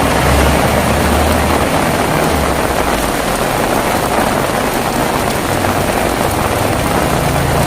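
Heavy rain falling steadily. A low rumble of thunder fades out in the first second or so.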